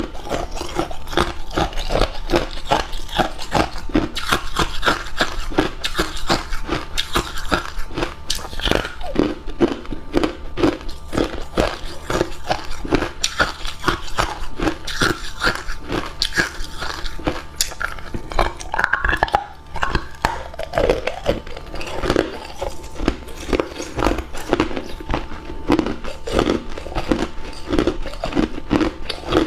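Hard cube ice being bitten and chewed close to the microphone: a rapid, continuous run of crunches, with a brief pause about two-thirds of the way through.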